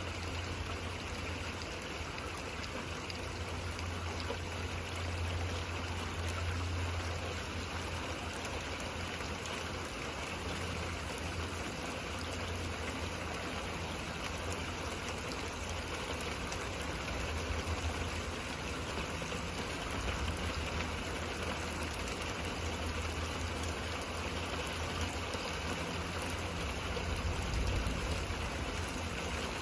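Steady thunderstorm rain falling with an even hiss, over a low rumble that swells and fades several times.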